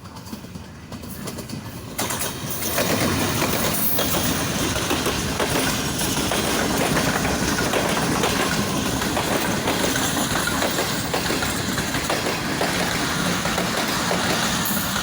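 Sir Syed Express passenger train running on the track. The sound steps up about two seconds in and then holds steady, with many short sharp knocks from the wheels.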